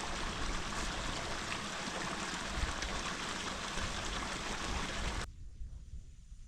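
Running water of a small woodland stream, a steady rushing hiss, which cuts off abruptly about five seconds in, leaving a much quieter background with a few faint ticks.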